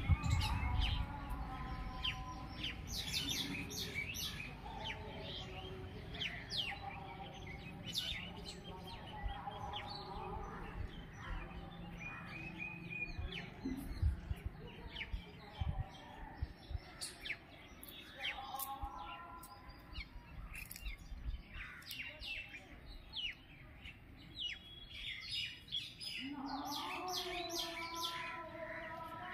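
Several birds chirping and calling in the trees: many quick, short chirps throughout, mixed with some lower warbling calls, over a low rumble.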